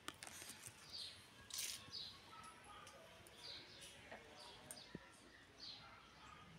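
Faint bird chirps, short high calls repeating roughly once a second, over an otherwise near-silent background.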